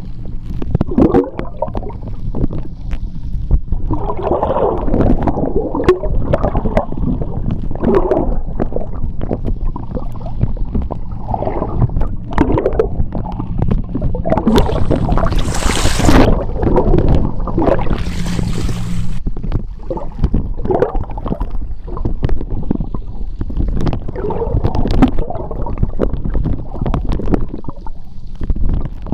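Seawater churning in a tidal current, recorded underwater: a steady low rumble with irregular gurgling surges. Twice, about midway, there is a brief bright hiss.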